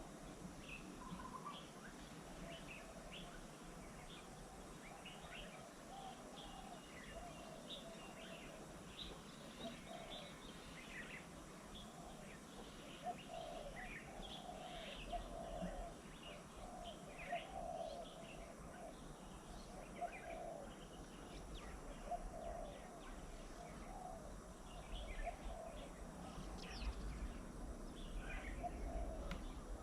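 Mixed wild birds calling around a garden bird table: many short high chirps over a run of repeated lower notes. A low rumble builds near the end.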